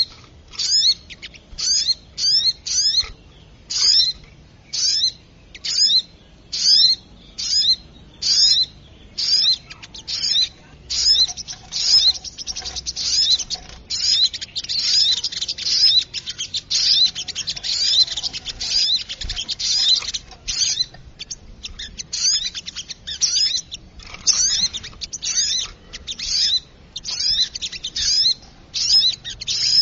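Sogok ontong (spiderhunter) calls used as a bird lure: sharp, high, downward-sweeping chips repeated about once or twice a second. In the middle they bunch into a dense, rapid chatter, then spread back out into evenly spaced chips.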